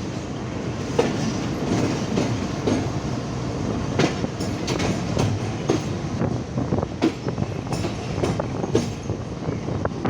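Arriving passenger train rolling past, its wheels clattering over the rail joints: a steady rumble broken by irregular sharp clacks.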